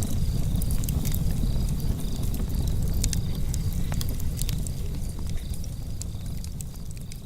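Wood fire in a fireplace crackling: frequent sharp pops and snaps over a low steady rumble of the flames, gradually fading out over the last couple of seconds.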